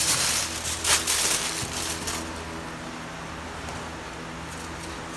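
Commercial kitchen background: a steady low machine hum with a couple of brief clattering noises in the first two seconds.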